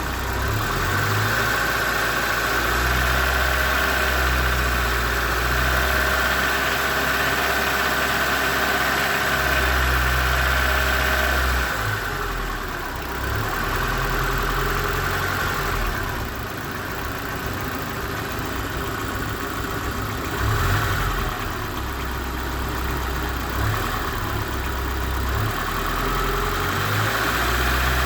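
Internal combustion engine idling, with a knock in it that appeared after the engine overheated; the owner cannot say what is knocking.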